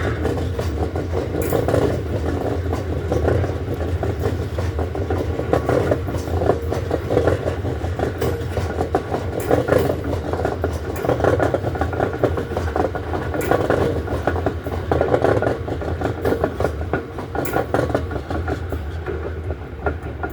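Loaded freight stone train rolling past: a steady rumble with rhythmic clattering of wagon wheels over the rail joints, about once a second, and scattered metallic clicks.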